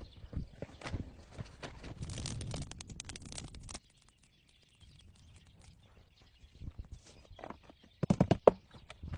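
Irregular knocks and clicks, dropping out for a moment about four seconds in, with a quick run of louder knocks near the end.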